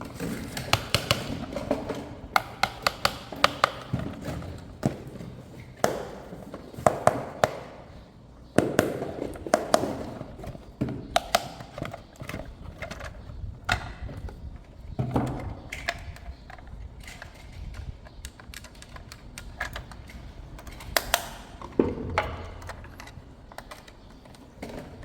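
A toy remote-control vehicle and its packaging being handled by hand: irregular sharp taps and clicks, often in quick clusters, with softer thuds and rustling between them.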